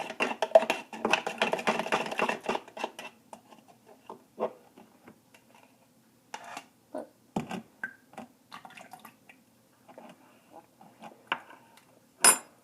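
A utensil clinking and scraping rapidly against a cup of thick sugar syrup, with a faint ringing, for about three seconds. Then come scattered light knocks and handling sounds, and one sharp knock near the end.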